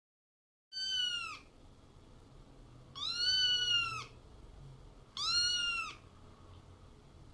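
Domestic cat meowing three times, each meow rising and then falling in pitch, the middle one the longest.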